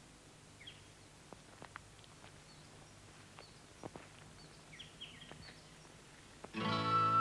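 Faint outdoor ambience with scattered short bird chirps and a few soft clicks. About six and a half seconds in, loud music starts suddenly.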